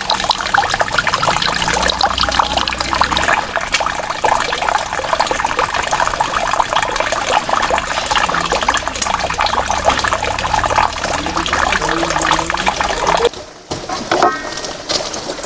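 Water pouring and splashing steadily, cutting off suddenly about thirteen seconds in.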